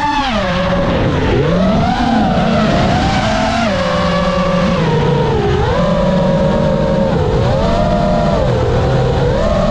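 5-inch freestyle FPV quadcopter's brushless motors and propellers whining, the pitch rising and falling continually with throttle.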